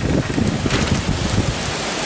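Heavy tropical-storm rain falling steadily on grass and pavement, with gusty wind rumbling on the microphone. The rumble is strongest in the first second or so, then eases.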